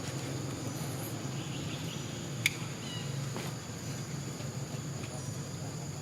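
Outdoor background with a steady high insect drone and a low hum, broken by one sharp click about two and a half seconds in, followed by a faint short chirp.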